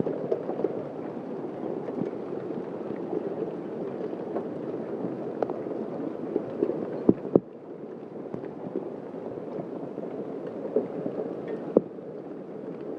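Heavy hailstorm: large hailstones pelting the ground and surroundings in a dense, irregular patter of impacts. A few sharper, louder strikes stand out about seven seconds in and again near the end.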